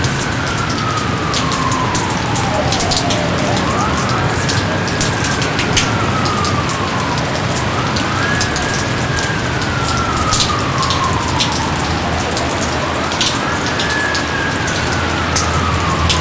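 Steady heavy rain with many separate drop patters. Over it, a wailing tone climbs quickly and then slides slowly down, about four times, each rise and fall taking a few seconds.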